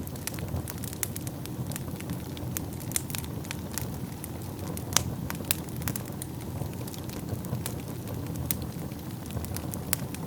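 Wood fire burning in a fireplace: a steady low rush of flames with frequent sharp crackles and pops, the loudest pop about halfway through.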